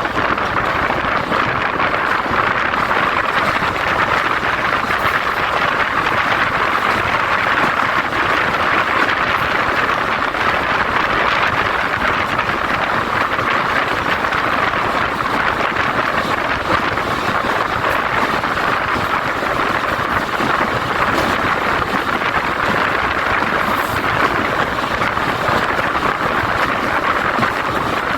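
Jaffar Express passenger train running, heard from aboard a coach: a steady rushing noise of wheels on the track and wind.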